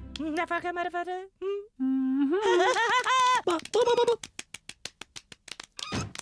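Cartoon penguin voices babbling in made-up gibberish, with wavering, pitch-bending cries that rise to a loud one. Then comes a quick run of clicks, about ten a second.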